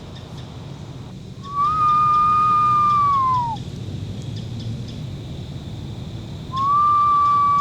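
A person whistling an owl call: two long steady whistles, each sliding down at the end, an imitation of an eastern screech owl's call to draw out owls. The first starts about a second and a half in; the second starts near the end.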